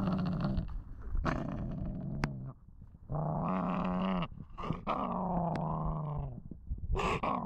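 Shepherd–Boxer mix puppy growling angrily, in about five long drawn-out growls with short breaks between them.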